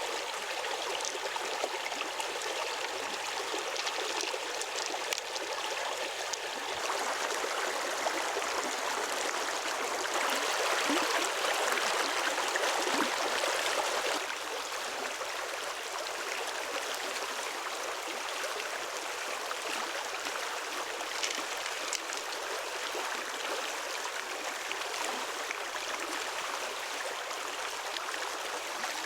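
Steady rush of flowing water, louder for several seconds in the middle.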